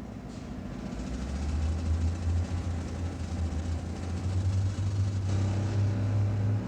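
A large vehicle, a bus or train, running with a strong low hum that swells about a second in and steps up about five seconds in.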